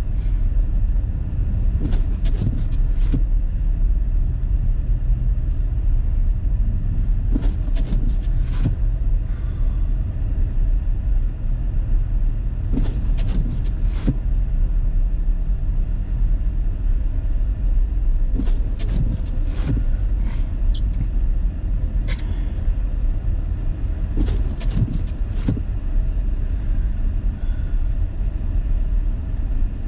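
Steady low rumble of a car driving on snow-covered roads, heard from inside the cabin. Clusters of short clicks and knocks come every few seconds.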